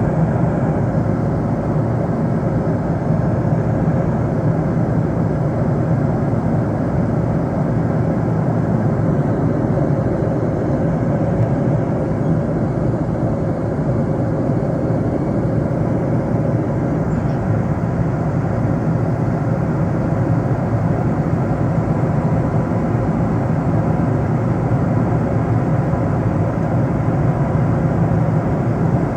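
Airliner cabin noise in flight: a steady, even rush of engine and airflow noise with a faint constant hum, unchanging throughout.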